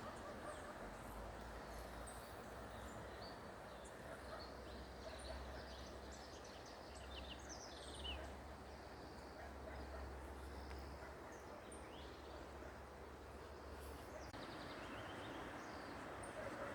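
Birds chirping in short scattered calls over a steady background hiss, with a low rumble underneath that fades out near the end.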